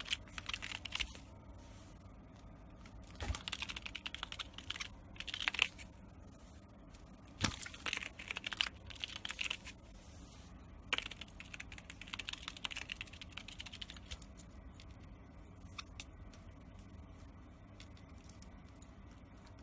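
A parrot chewing and tearing at something with its beak: bursts of rapid crackly clicking and crunching in four spells of one to three seconds each, then only scattered single clicks near the end.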